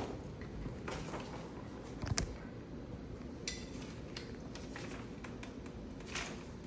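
Small bird-feeder parts and hardware being handled: scattered clicks and clinks, the loudest a pair of quick knocks about two seconds in.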